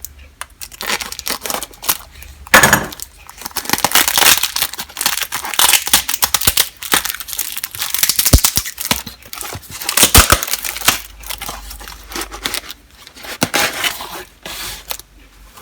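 A mail package being opened by hand: packing tape and wrapping tearing, and paper or plastic crinkling, in irregular rustles with scattered small clicks and knocks.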